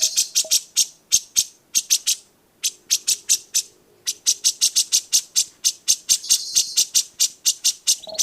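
Songbird chirping: a fast, steady run of sharp, high chips, several a second, with a short pause about two and a half seconds in.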